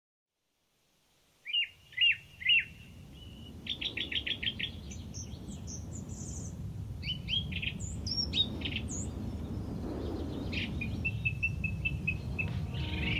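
Birds singing, with three loud chirps near the start, then quick trills and varied calls, over a low rushing background noise that slowly grows louder.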